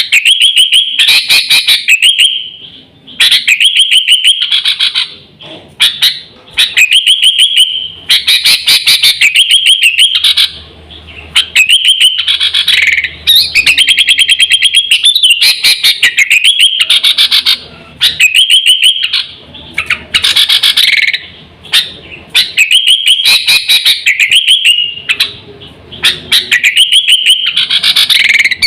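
Sooty-headed bulbul (kutilang) lure call: loud bursts of rapid, chattering high notes, each a second or two long, repeated again and again with short pauses.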